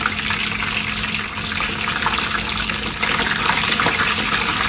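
Spring rolls shallow-frying in hot oil in a pan: a dense, steady sizzle full of small crackles and pops. A steady low hum runs underneath.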